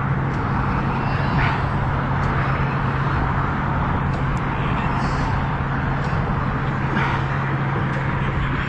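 Steady rumble of road traffic on the bridge, with a constant low hum running under it.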